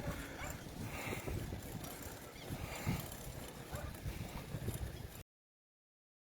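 Wind buffeting the microphone in a low, uneven rumble. The sound cuts to total silence about five seconds in.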